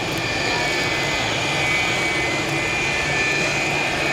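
McDonnell Douglas MD-82's rear-mounted Pratt & Whitney JT8D turbofans running, a steady jet noise with a high whine, growing slightly louder.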